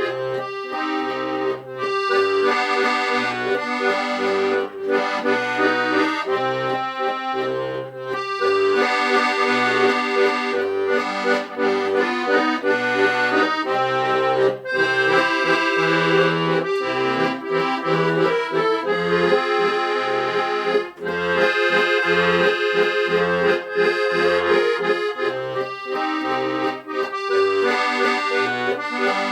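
Accordion music: melody and chords over a steady, regularly repeating bass line.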